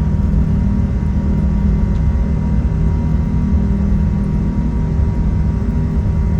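Steady cabin noise of an Airbus A380 with Rolls-Royce Trent 970 engines, heard from inside the upper-deck cabin: a constant low rumble with a faint steady hum, unchanging throughout.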